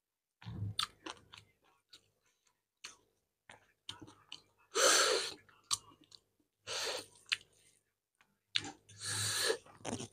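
Close-miked chewing of a mouthful of rice and curry eaten by hand: wet smacks and sharp mouth clicks, with three louder rushing noises about five, seven and nine seconds in.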